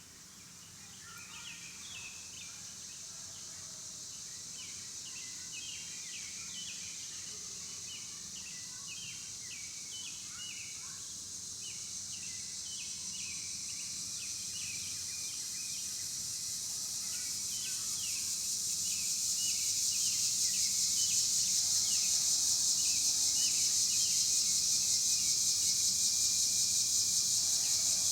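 Outdoor insect buzzing, a steady high drone that grows louder over about twenty seconds and then holds, with many short bird chirps over it.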